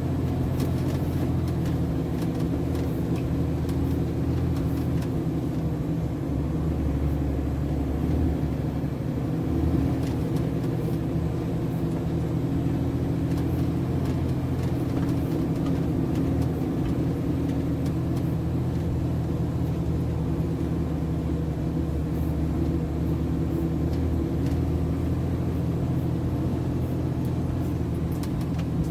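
Diesel engine of a MAN TGS 33.480 heavy truck running steadily at a low, even speed, with a slight swell about ten seconds in.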